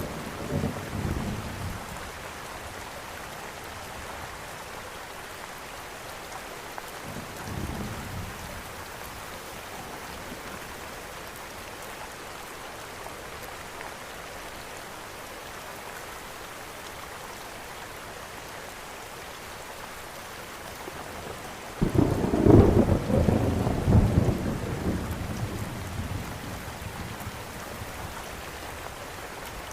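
Steady rain with rolls of thunder: a rumble fades out at the start, a faint one comes around eight seconds in, and a loud peal breaks about twenty-two seconds in and rumbles on for several seconds.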